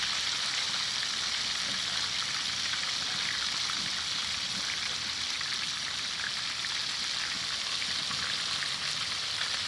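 Chicken pieces deep frying in hot oil in a discada: a steady, even sizzle with a fine crackle.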